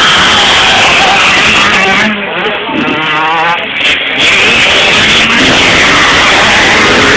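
Motocross dirt bike engines revving loud and close, their pitch rising and falling as the throttle opens and closes, with a short easing off about two seconds in.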